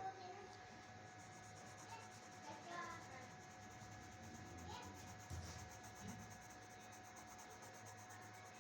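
Faint scratching of a pen or pencil drawing on paper, over a faint steady tone.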